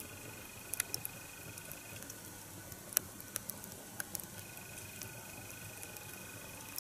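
Split log burning upright as a one-log nodya fire, crackling quietly with scattered sharp pops and ticks, one louder pop about three seconds in.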